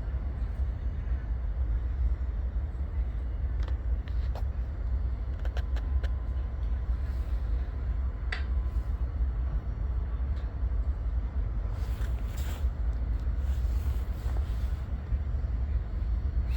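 Diesel freight locomotives idling: a steady low rumble, with a few faint clicks.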